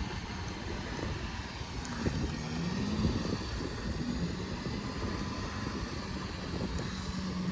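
Off-road vehicle engine running over a low rumble; its pitch rises about two seconds in, then holds at a steady drone.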